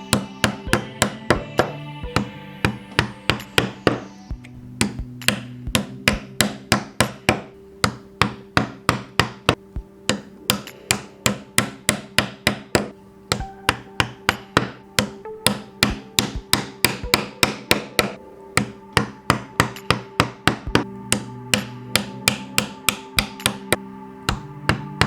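Rapid, even series of mallet blows on a woodworking tool, about three a second, over background music with held chords.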